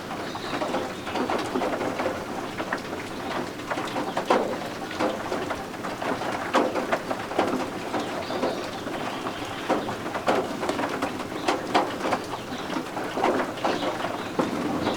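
Steady rain patter mixed with the peeping of guinea fowl keets.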